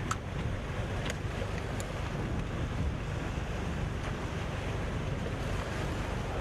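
Wind buffeting the microphone at a harbour jetty, a steady low rumble, with a few brief faint clicks in the first couple of seconds.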